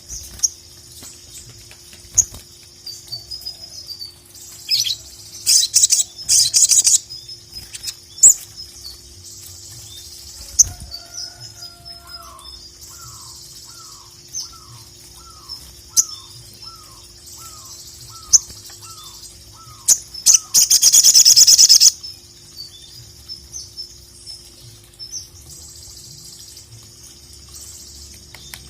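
Sogon (sogok ontong), a sunbird, singing: quick high chirps throughout, broken by loud rapid trilling bursts about five seconds in and again near twenty seconds. From about twelve to twenty seconds a lower call of about a dozen short falling notes repeats evenly, with a faint steady hum underneath.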